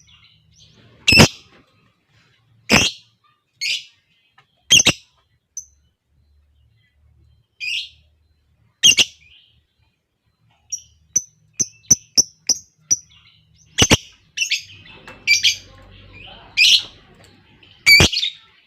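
Lovebirds calling with sharp, high chirps and shrieks, mostly single calls spaced a second or more apart. About eleven seconds in comes a quick run of short ticking notes, and near the end the calls come thicker and faster.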